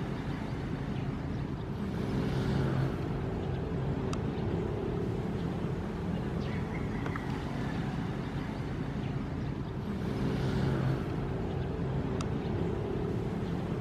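Ocean waves: a steady low wash of surf, swelling twice, about two and a half seconds in and again near ten seconds.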